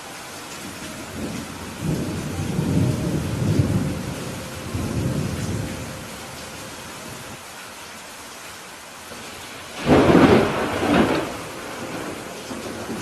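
Steady rain with thunder: a low rolling rumble starts about two seconds in and dies away over some four seconds, then a sudden louder thunderclap comes about ten seconds in and rumbles off within a second or two.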